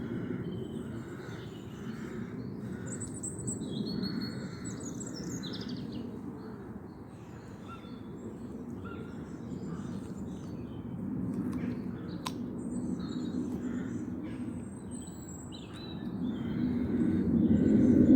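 Small wild birds chirping and singing in short calls and trills, over a steady low background rumble that grows louder near the end. A single sharp click about twelve seconds in.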